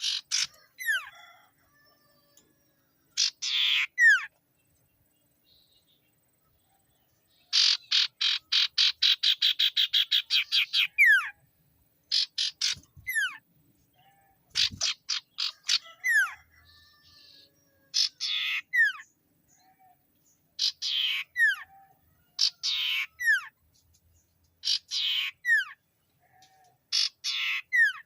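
A cipoh (sirtu) songbird, the common iora, calling vigorously and repeatedly in a rival-seeking display: harsh rasping calls mixed with downward-sliding whistles, and a fast rattling run of about six notes a second about eight seconds in.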